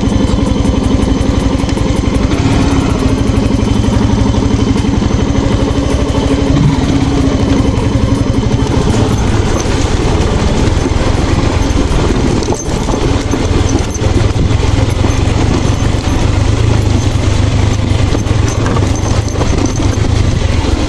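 Yamaha motorcycle engine running steadily at low speed while the bike is ridden along a rough dirt trail, easing off briefly about halfway through.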